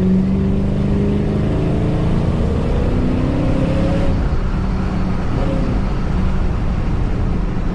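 Supercharged 2006 Ford Mustang GT 4.6 V8 engine and exhaust pulling under acceleration, its pitch climbing, dipping briefly at a gear change, then climbing again. After about four seconds it eases off and settles into a steady low rumble with road noise.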